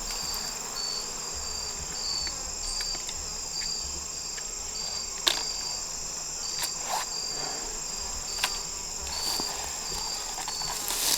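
Crickets chirping: one steady high trill, with a second insect pulsing about twice a second. A few sharp clicks, the loudest about halfway through.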